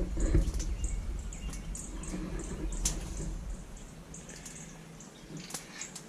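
Insects chirping in a steady rhythm, two or three short high chirps a second, over a low rumble. A few sharp clicks, the loudest about three seconds in.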